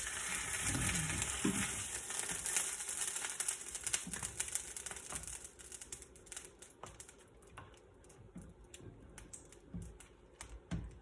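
Hot oil sizzling in a frying pan, a steady hiss that fades away over the first half. After that come scattered light clicks and taps.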